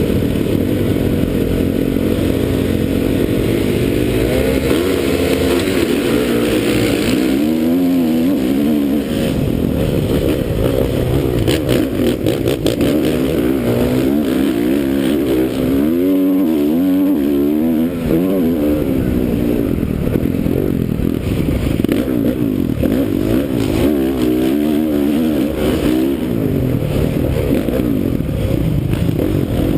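2009 Honda CRF450R's single-cylinder four-stroke engine revving up and down as the bike is ridden hard around a motocross track, with some clattering partway through.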